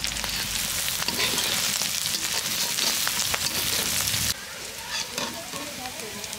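Food frying in hot oil in a pan, with a loud sizzle and stirring. About four seconds in, the sizzle drops suddenly to a quieter level, with light clicks and scrapes of the stirring utensil.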